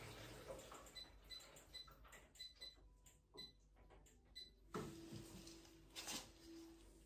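Near silence broken by a run of faint irregular ticks, then a soft knock just before five seconds in, followed by a faint steady low hum.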